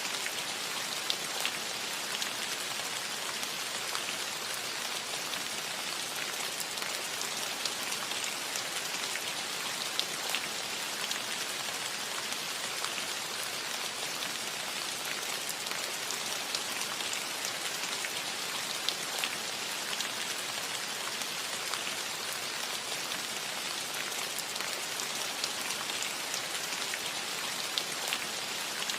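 Steady rain falling on a roof: an even hiss with scattered sharper drop ticks.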